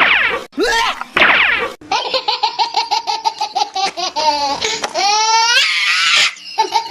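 High-pitched giggling laughter in rapid ha-ha pulses, about six a second. It comes after three quick falling sweeps in pitch at the start.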